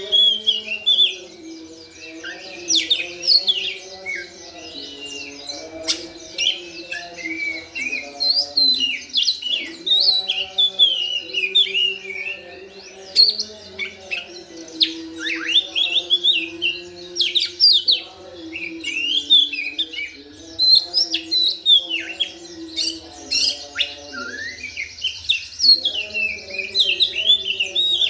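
Oriental magpie-robin singing a fast, busy run of chattering, twittering phrases with quick rising and falling whistles, the 'ngeriwik' style. A background track of sustained low notes changes pitch in steps beneath the song.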